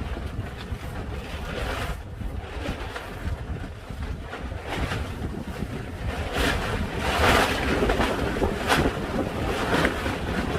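Strong wind buffeting the microphone with a constant low rumble, and gusts that swell into a loud rushing hiss about two-thirds of the way through.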